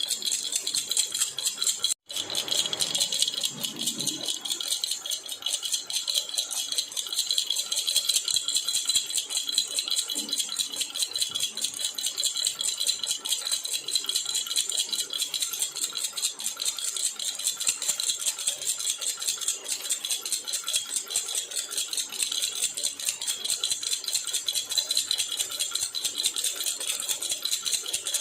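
Jhunjhuna baby rattle shaken steadily, a rapid, continuous jingle with a momentary break about two seconds in.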